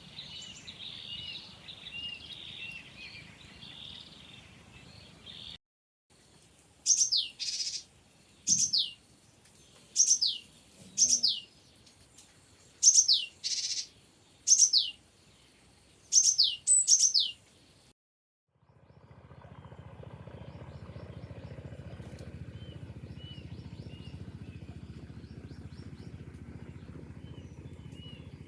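Birds calling. Soft chirping comes first, then a run of loud, sharp calls that sweep down in pitch, mostly in pairs every second or two. Last comes a steady rushing noise with faint chirps over it.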